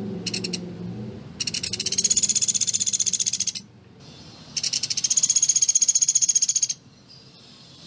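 Sunda pygmy woodpecker (pelatuk beras) giving its rapid rattling trill of high, evenly spaced notes: a short burst, then two long trills of about two seconds each.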